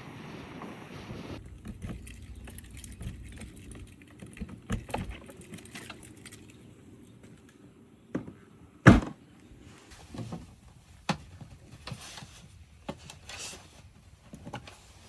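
Wind noise that cuts off abruptly a second and a half in, followed by scattered clicks, rattles and knocks of objects being handled, with one loud thump about nine seconds in.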